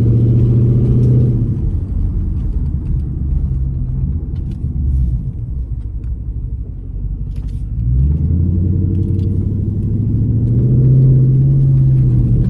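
Straight-piped 6.4-litre HEMI V8 of a 2012 Dodge Charger SRT8 revved and held, then dropping back toward idle with a few faint crackles. About eight seconds in it revs up again and holds. This is the engine being blipped to make the exhaust pop.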